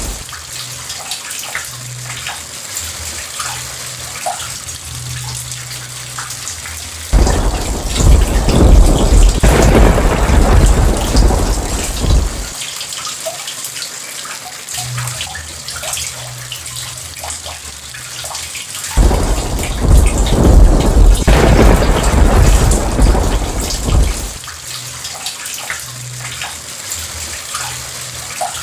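Steady rain falling, with two long rolls of thunder, one about seven seconds in and one about nineteen seconds in, each starting suddenly and lasting about five seconds.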